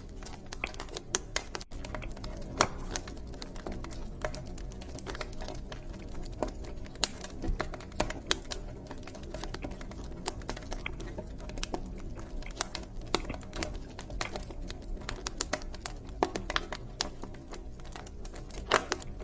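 Wood fire burning in a fireplace: irregular crackles and sharp pops over a low steady rumble of the flames.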